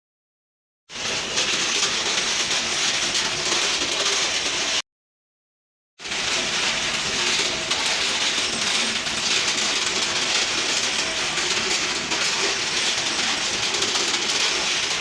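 Steady, loud hissing mechanical noise with a faint hum underneath, cut off by two short dead-silent gaps, one right at the start and one about five seconds in.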